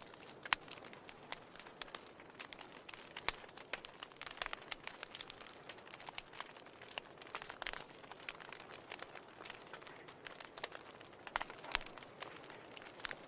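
Wood fire burning in a fireplace, crackling with irregular sharp pops and snaps over a steady soft hiss.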